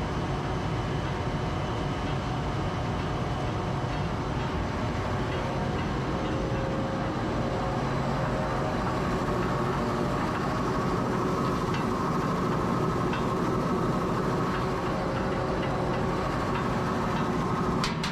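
Steady rumble of a moving vehicle, with faint steady tones over it.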